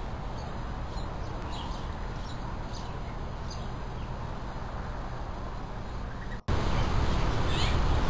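Steady outdoor background noise with faint, short bird chirps. About six and a half seconds in the sound cuts abruptly to a louder noise floor, with a few sharp, falling bird calls soon after.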